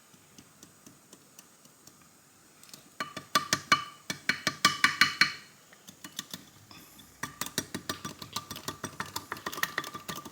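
A small test tube being tapped over and over, with rapid light clicks and a faint ringing clink, to knock powder down into the vinegar in it. The taps come in two runs, the first starting about three seconds in and the second about seven seconds in.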